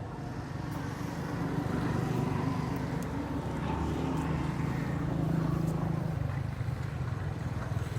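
A motor vehicle's engine running close by, growing louder for a few seconds and then falling away near the end, like a vehicle passing.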